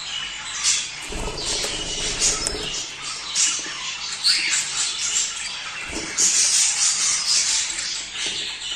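Many budgerigars chattering at once: a dense, unbroken mix of high chirps, warbles and squawks, a little louder from about six seconds in. This is budgie breeding chatter of the kind played to stimulate pairs to mate.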